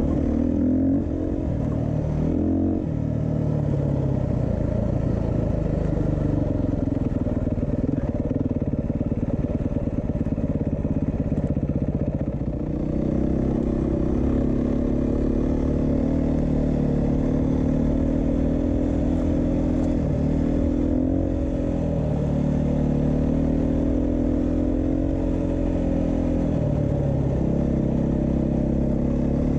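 Beta 390 RR-S enduro motorcycle's single-cylinder four-stroke engine running under way, its pitch rising and falling several times with the throttle.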